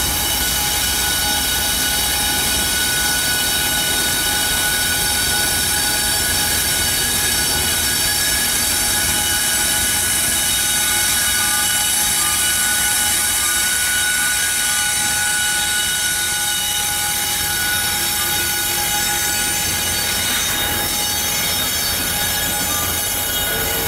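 A loaded coal train passes close by: the Norfolk Southern ES44AC and Union Pacific SD70M diesel-electric locomotives run past, followed by coal hoppers rolling on the rails. A steady high-pitched squeal rings over the rumble.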